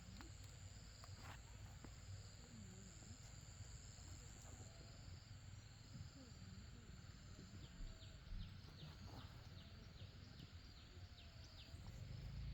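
Faint countryside ambience: a steady high insect drone that fades out about two-thirds of the way in, with a quick run of about ten short chirps in the later part and a low rumble that grows near the end.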